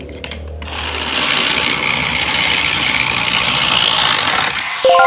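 A steady rasping, scraping noise for about four seconds that stops abruptly and gives way to a ringing, bell-like chime near the end.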